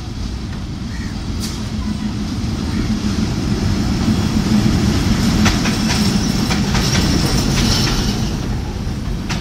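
Diesel locomotive hauling a passenger train close by, its engine rumble swelling to loudest through the middle as it comes level. In the second half the passing coaches add a run of wheel clicks over the rail joints.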